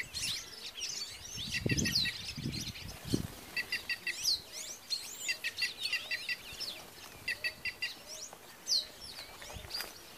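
Several wild birds chirping and calling at once, with many overlapping short whistles and sweeping notes. Four times a quick run of short repeated notes is heard, and a few low thumps come about two to three seconds in.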